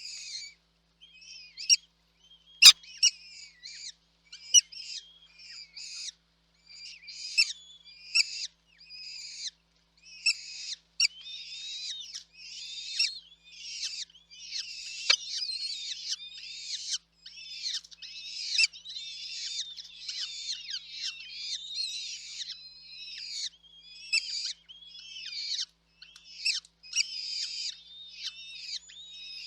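Nestling birds calling in rapid, high-pitched bursts of cheeps, the begging calls of chicks in the nest. A sharp click about three seconds in.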